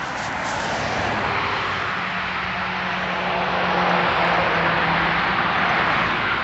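A car driving past, its engine hum and tyre noise swelling gradually to a peak about four to five seconds in and then easing off.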